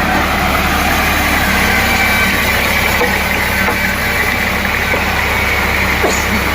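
Sawmill machinery running steadily, a constant low hum under a wide hiss with a faint tone near the top.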